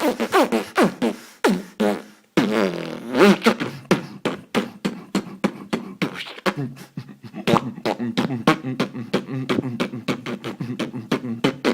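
A man beatboxing: rapid mouth-percussion clicks and hits mixed with sliding voiced tones, a brief break a couple of seconds in, then a fast run of clicks over a steady hummed low note.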